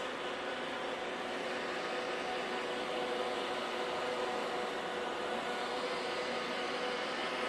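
Shark vacuum cleaner running steadily, a constant motor and airflow noise with a faint steady hum.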